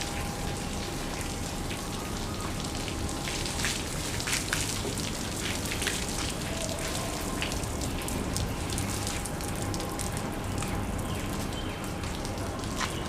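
Steady rain pattering, with many scattered sharp drop ticks and a faint steady hum underneath.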